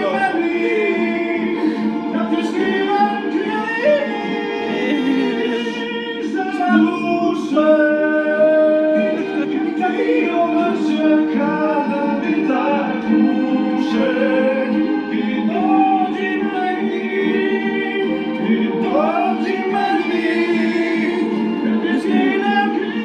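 Several voices singing together, with no clear instrument behind them.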